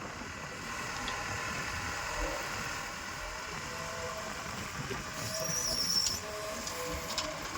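Diesel engines of a backhoe loader and tractor running steadily, with a brief high-pitched squeal about five seconds in.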